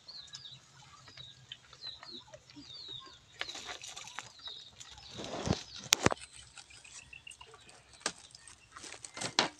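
Birds peeping: short, high calls repeating for the first few seconds. These give way to a rustling burst about midway and a sharp click, with a few more clicks near the end.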